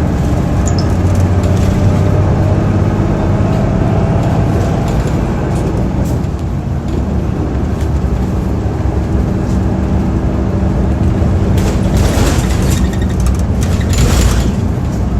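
Running sound of a 2008 Hino Blue Ribbon II city bus (PDG-KV234N2) with a manual gearbox: its four-cylinder turbo diesel runs steadily under way, with a faint rising whine a few seconds in. A few short bursts of noise near the end.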